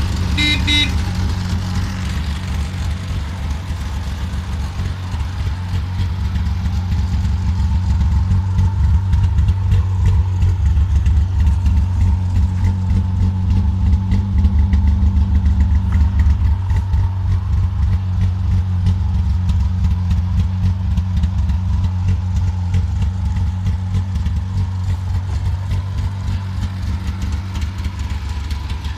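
Jawa Minor's two-cylinder two-stroke engine running steadily, growing louder for several seconds in the middle and easing off again. A short horn toot sounds near the start.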